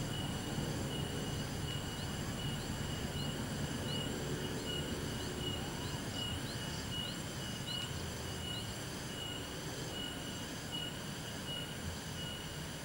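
Low rumble of a train moving away along the track, slowly fading. Over it run a steady pulsing insect trill and a short rising chirp repeated about twice a second.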